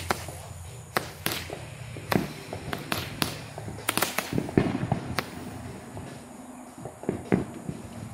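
Consumer aerial fireworks going off: a run of sharp bangs and crackles, about a dozen over several seconds, thickest in the middle and thinning to two last bangs near the end.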